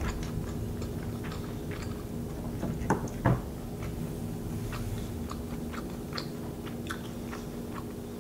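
A person chewing food close to the microphone: soft, wet mouth clicks throughout, with two louder ones a little after three seconds in.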